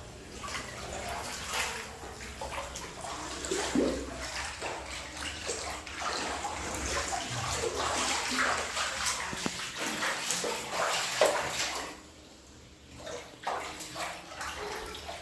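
Floodwater running and splashing as it comes into a room, an uneven watery rush with a brief quieter spell about twelve seconds in.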